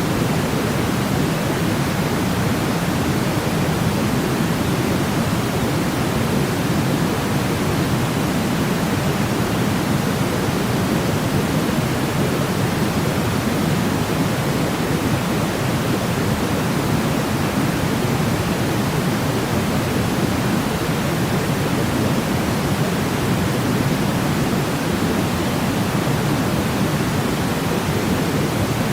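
Steady, unchanging white noise for baby sleep, a smooth hiss weighted toward the low end like pink noise.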